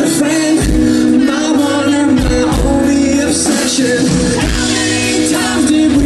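Rock band playing live, with a sung lead vocal over sustained guitars and keys and a steady kick drum beat.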